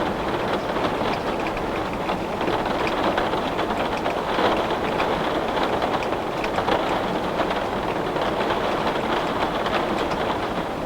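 Heavy rain beating steadily on a window: a dense, even hiss of rain with the faint ticks of single drops striking the glass.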